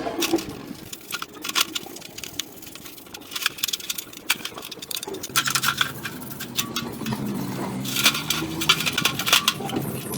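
Metal parts clinking and scraping under hand work, with a steady machine hum starting about halfway through.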